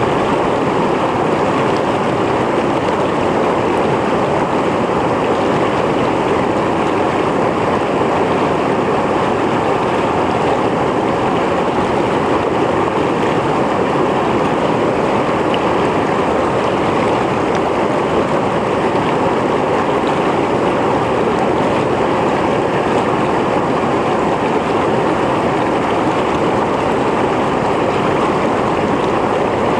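Mountain stream flowing steadily over rocks: a continuous, even rush of water with no breaks.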